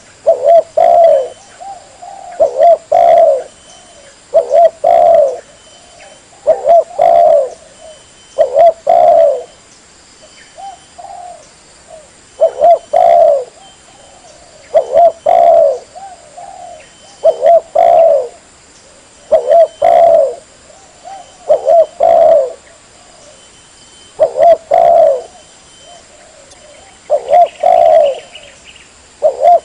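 Spotted dove (tekukur) coo call, the repeated phrase of a bird-catching lure track. Loud coo phrases come about every two seconds, with a few softer notes in the gaps.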